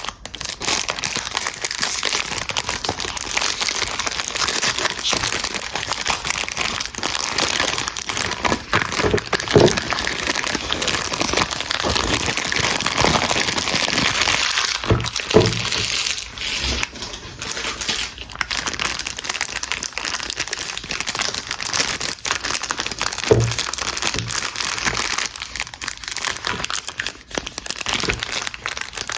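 Soap packaging being unwrapped by hand: a steady crinkling and rustling of the wrapper, with a few sharper knocks, about three in all.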